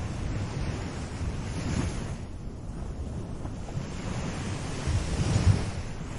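Small ocean waves washing onto a beach, a steady surf noise with a low rumble of wind on the microphone; a wave breaks a little louder about five seconds in.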